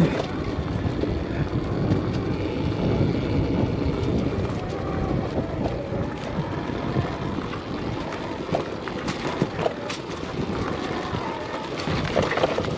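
Arctic Leopard XE Pro electric dirt bike being ridden over a rocky trail: wind noise on the microphone over a rumble of tyres and chassis, with a faint motor whine rising and falling. A few sharp knocks come past the middle.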